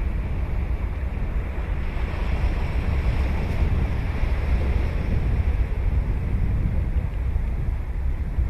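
Ocean surf washing onto a sandy beach, a wave's wash swelling about two seconds in, with wind rumbling on the microphone.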